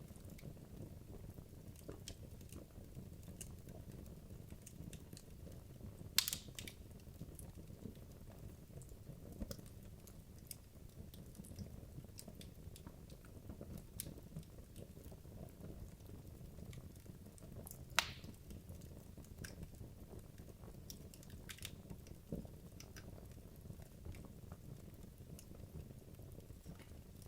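Wood logs burning in a fireplace: a faint, steady low rumble of flame with scattered small crackles, and two louder sharp pops, about six seconds in and about eighteen seconds in.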